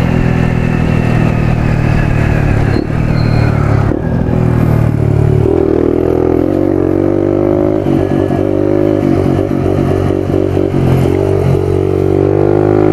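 Small dual-sport motorcycle's engine running under way. Its note changes about five and a half seconds in, then climbs slowly.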